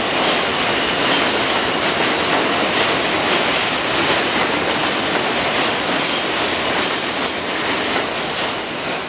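A New York City Subway M train runs through the station with a loud, steady rumble of wheels on rail. Thin, high-pitched wheel squeals come and go over the second half.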